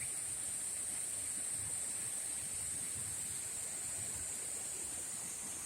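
Waterfall rushing steadily, heard from the path above it, with a steady high-pitched whine running over the water noise.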